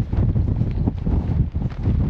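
Strong wind buffeting the microphone: a loud, gusting low rumble, with a few light knocks over it.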